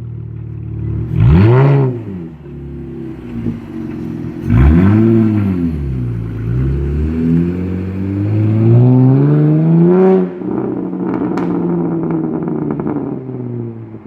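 2012 Camaro's 3.6-litre LFX V6, straight-piped through an X-pipe with the muffler and resonator deleted, blipped twice, then revved up more slowly and let drop back, settling to idle between the revs.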